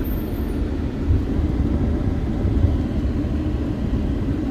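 A car driving along: steady low rumble of road and engine noise.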